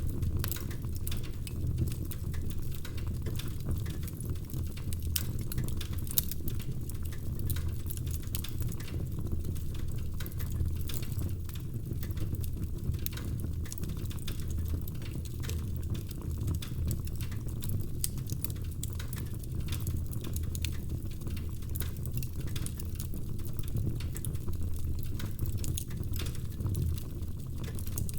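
Wood fire burning in a fireplace: logs crackling with many small irregular pops over a steady low rumble of flames.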